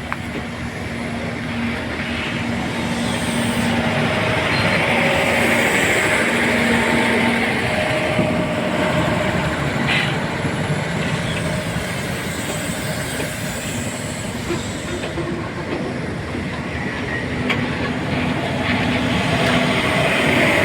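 A passenger train rolling slowly out of the station, its wheels running over the rails with some clatter, getting gradually louder as the coaches pass.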